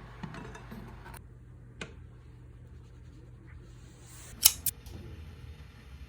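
Sharp clicks of metal cookware being handled on a wood-burning stove: one near two seconds in and a louder double click about four and a half seconds in, over a low steady hum.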